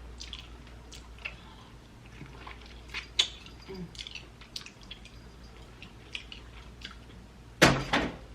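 Close-miked chewing of sauced chicken wings: scattered soft mouth clicks and smacks, with a louder burst near the end.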